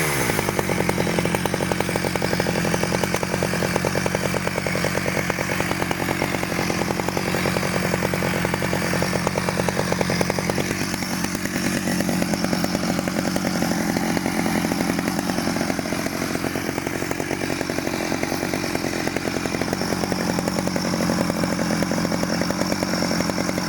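Rebuilt 1991 Stihl 009L two-stroke chainsaw engine running steadily at an even speed.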